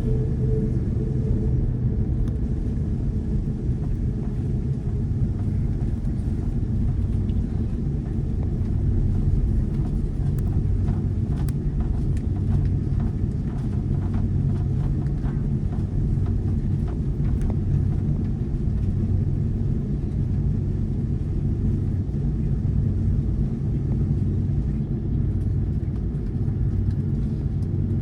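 Cabin rumble of an Airbus A330-200 taxiing, its Rolls-Royce Trent 700 engines at low thrust: a steady low drone with a few faint rattles about halfway through.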